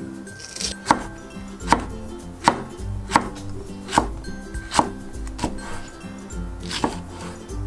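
Chef's knife slicing green onion and then green chili peppers on a wooden cutting board. The blade knocks crisply on the board about once every 0.8 seconds, around eight cuts in all.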